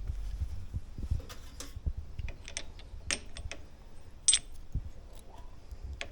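Scattered light clicks and taps from handling the shock parts and tools, with one sharper click about four seconds in.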